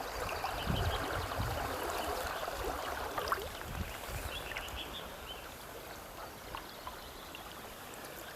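River water gurgling and splashing around a small inflatable packraft as it moves downstream, louder in the first few seconds and fading after about halfway.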